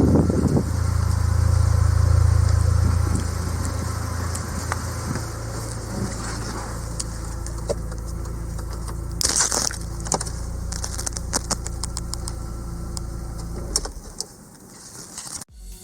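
Audi TT 8N's 1.8T AUQ turbocharged four-cylinder engine idling steadily, a little louder in the first few seconds, with a short hiss about nine seconds in and scattered light clicks. The engine shuts off near the end.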